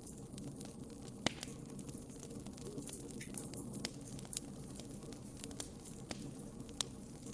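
Wood fire burning in a fireplace: a steady low hiss of the flames with scattered sharp crackles and pops, the loudest about a second in and again near the end.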